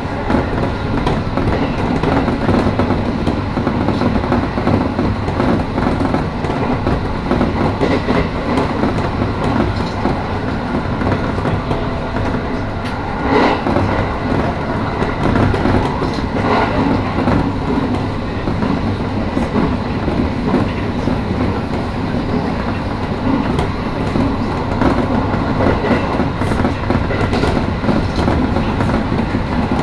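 Electric train running on the Tohoku Main Line, heard from inside the car: a steady rumble of wheels on rail with occasional clacks over rail joints, a couple of them louder about halfway through.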